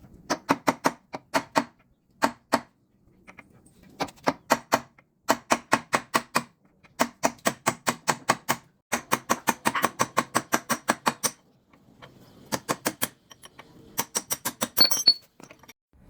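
Quick sharp strikes on metal, about five or six a second, in short bursts of hammering separated by brief pauses.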